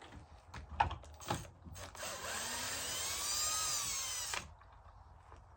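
Power drill driving a 1.5-inch pocket-hole screw into a 1-inch board for about two and a half seconds, its motor pitch bending slightly up and then down before it stops abruptly. A few handling knocks come before it.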